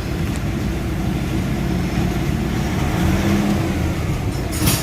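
Nissan engine running steadily at idle with the air conditioning on, with a short sharp click near the end.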